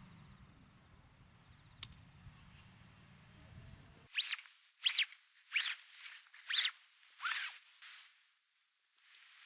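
A tent zipper pulled in six short rasping strokes about every half second, starting about four seconds in, after a faint steady outdoor background.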